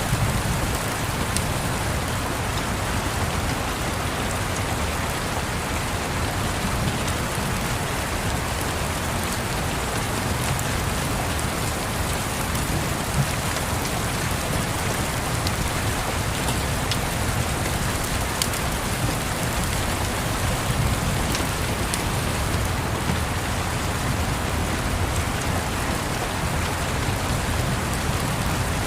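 Steady rain falling and pattering, with a low rumble underneath and scattered faint crackles throughout.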